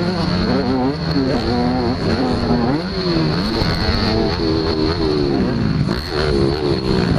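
Several motocross bikes' engines revving on a track, overlapping, with the pitch climbing and dropping over and over as the throttles open and close and the gears change.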